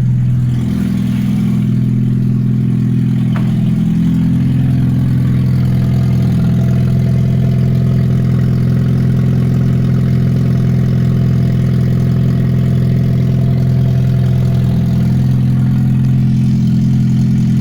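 Toyota 1NZ-FE 1.5-litre four-cylinder engine running loud and steady with no muffler on the exhaust. The engine note shifts briefly about a second in and again near the end.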